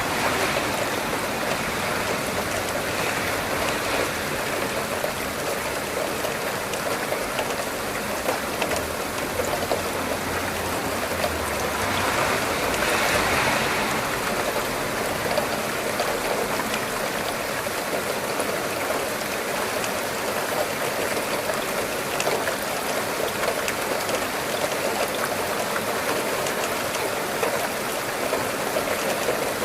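Steady rain falling, an even hiss of water with a slight swell about thirteen seconds in.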